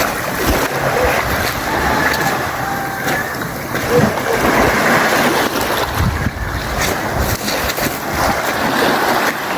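Waves washing on a beach with wind buffeting the microphone, a steady rushing noise with low thumps.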